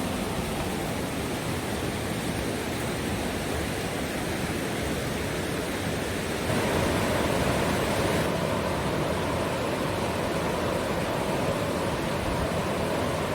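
Steady rush of fast-flowing water in a river gorge. It grows louder and fuller about halfway through.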